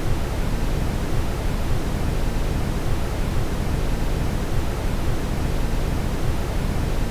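Brown noise: a steady, even, deep rushing hiss with no changes, strongest in the low end.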